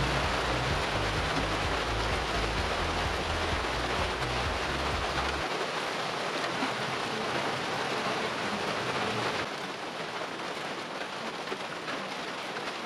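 Steady hiss of rain, with a low rumble underneath that stops suddenly about five and a half seconds in. The hiss eases slightly near the end.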